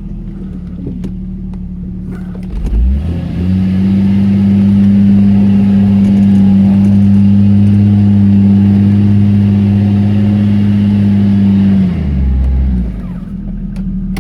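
Off-road 4x4's engine idling, then revved up hard about three seconds in and held at high, steady revs for about eight seconds before dropping back to idle, a climbing attempt on a slippery slope.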